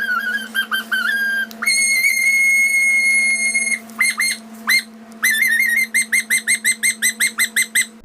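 Shrill whistle-like tones: a few short notes, one long held note, then a fast run of short repeated notes about five a second, over a steady low hum.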